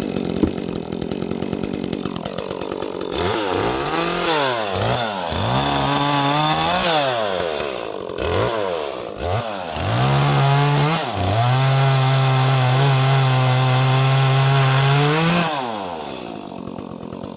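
Small 30cc Echo two-stroke chainsaw revved up and down several times, then held at high speed for about four seconds before dropping back to idle near the end.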